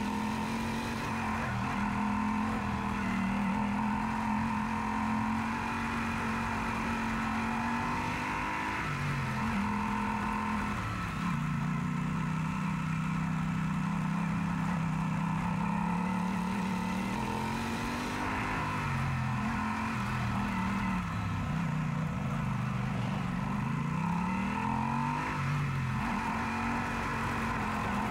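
Yamaha Super Ténéré parallel-twin motorcycle engine running on the road. Its pitch drops and climbs again several times as the throttle is eased and reopened through gear changes.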